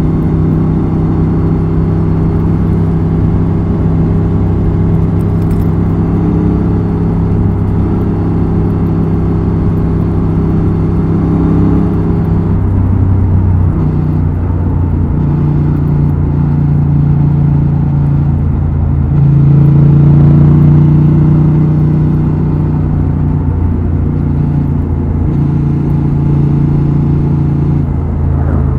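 Honda XL750 Transalp's 755 cc 270° parallel-twin engine and exhaust under way, running at a steady engine speed with its note shifting in pitch a few times. It is loudest about two-thirds of the way through.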